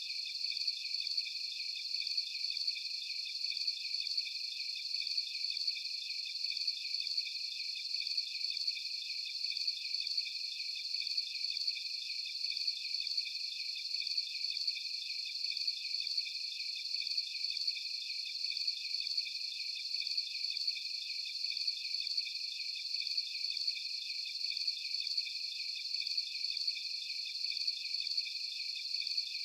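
Night chorus of crickets chirping: a steady, densely pulsing high trill in several overlapping pitches, with no deeper sound under it.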